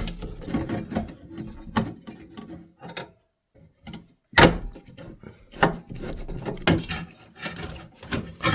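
Irregular clicks, knocks and scraping of metal parts being handled as the screws come out and the combustion fan of a Rinnai RE180 tankless water heater is worked loose. There is a sharp knock right at the start, and the loudest clunk comes about four and a half seconds in.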